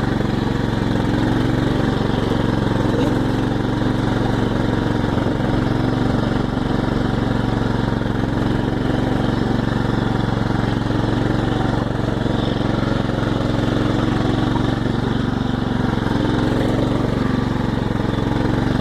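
Small tractor's gasoline engine running steadily at a constant speed, with no revving.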